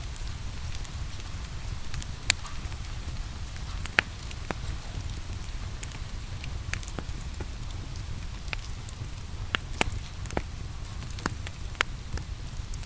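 Steady rain mixed with a crackling wood fire: a constant low rushing, with sharp pops every second or so. The loudest pops come about two and four seconds in, and another near the end.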